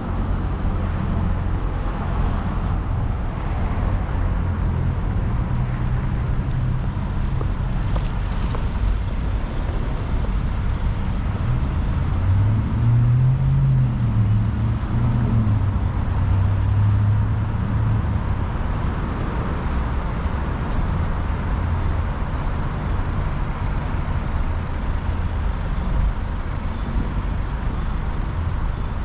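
Steady city street traffic, with one vehicle's engine passing close and louder around the middle.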